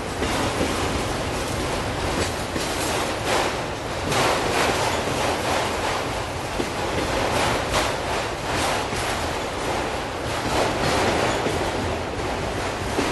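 Freight train of auto-rack cars rolling past steadily, a continuous rumble of wheels on rail with repeated clicks over rail joints.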